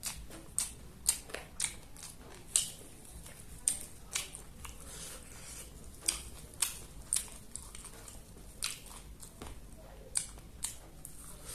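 Close-miked eating: a person biting and chewing crunchy food, with sharp, irregular crunches coming one or two a second.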